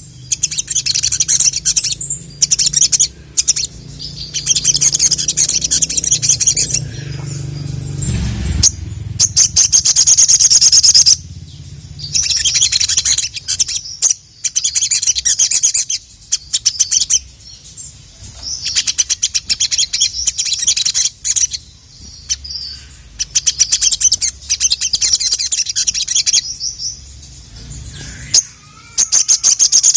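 Sogon (sogok ontong) sunbird singing a full, varied song: loud, rapid high-pitched trills and chirps in bursts of one to two seconds, repeated with short breaks.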